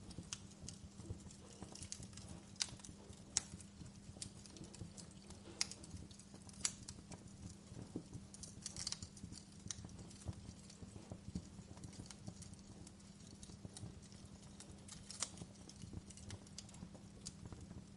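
Wood fire crackling in a fireplace: irregular sharp snaps and pops, a few louder than the rest, over a steady low hum.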